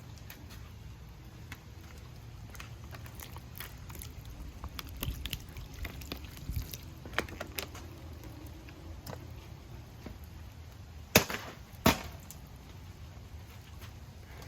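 Handling of an OTF knife: scattered small taps and clicks, then two sharp, loud clicks under a second apart about eleven seconds in.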